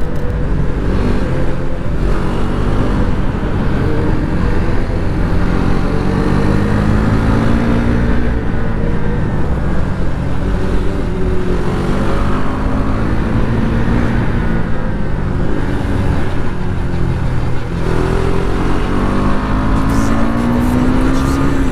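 KTM RC 390's single-cylinder engine pulling hard and revving up and down through the gears while cornering at speed, heavy wind rushing over the helmet microphone. The engine pitch climbs and drops several times, with a long climb near the end.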